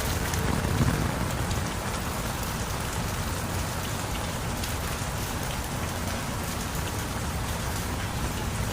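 Steady heavy rain falling, with individual drops ticking sharply through the hiss and a low rumble underneath; it swells briefly just under a second in.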